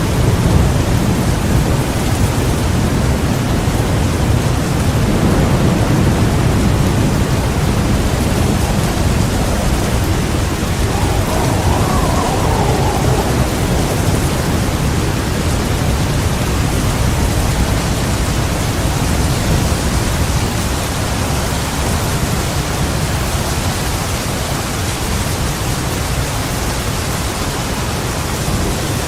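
Heavy rain falling steadily, with low thunder rumbling underneath that is strongest in the first several seconds and eases off later.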